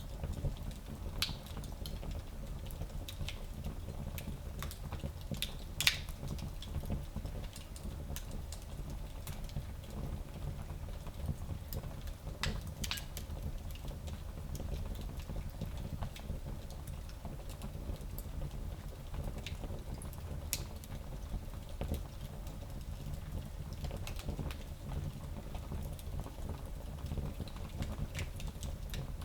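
Fire in a small fireplace crackling, with scattered pops over a low steady rumble. The loudest pop comes about six seconds in, and another sharp one a little before halfway.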